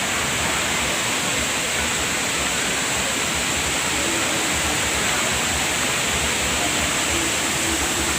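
Steady rush of fast-flowing water from the Bantimurung waterfall and its stream, an even unbroken noise.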